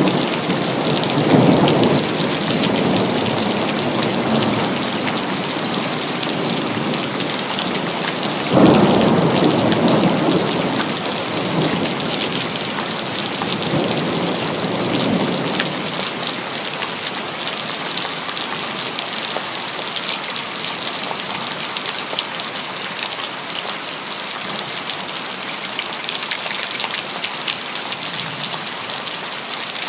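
Steady rain falling, with thunder. One roll of thunder swells up about a second and a half in, and a sudden louder clap about nine seconds in rumbles away over several seconds, leaving only the rain.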